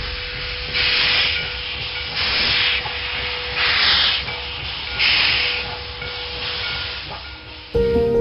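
Steam locomotive working at low speed: four slow, evenly spaced exhaust chuffs of hissing steam, about one every second and a half, over a low rumble. Music cuts in near the end.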